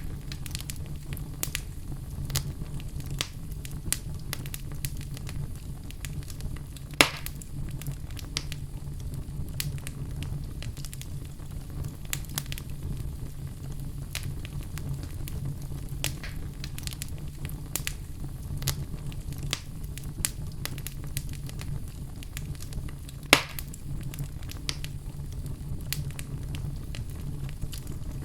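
Crackling fire: a steady low rumble with scattered snaps and pops, two of them louder, about seven seconds in and near twenty-three seconds in.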